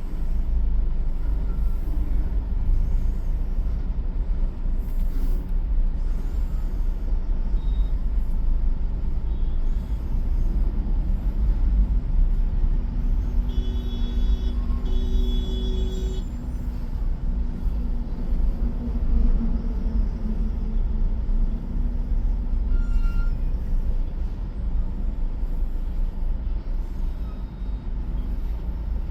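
Road traffic with trucks and cars: a loud, steady low rumble of engines and tyres. About halfway through, a vehicle horn sounds twice, a short blast and then a longer one.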